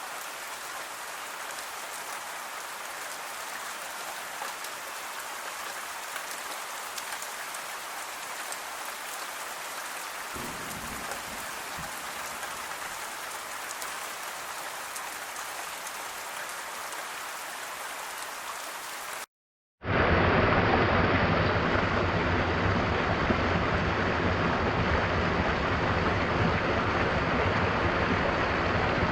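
Steady rain with a fine patter of drops, and a brief low rumble about ten seconds in. Near two-thirds of the way through, the sound cuts out for half a second and a louder, fuller, steady roar of rushing water from a waterfall takes over.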